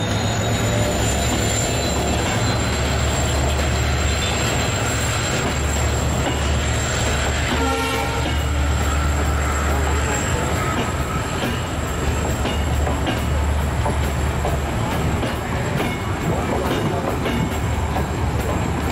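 Diesel-hauled passenger train passing close by. The Class M11 locomotive's engine makes a deep rumble, and then the ICF coaches roll past with steady wheel noise and repeated clacks over the rail joints. A brief pitched sound, such as a short squeal, comes about eight seconds in.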